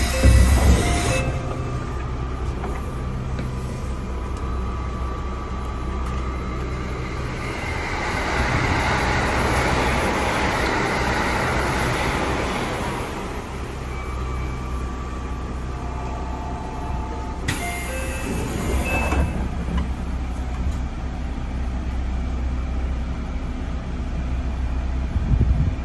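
JR 311 series electric train heard from inside the car while running: a steady rumble of wheels and running gear with faint whining motor tones. The noise swells for a few seconds in the middle, and there are two short hissing bursts, one at the very start and one a little past halfway.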